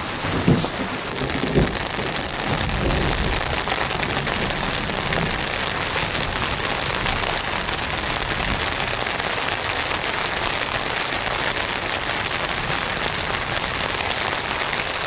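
Steady rain falling, an even hiss throughout, with a few low thuds in the first couple of seconds.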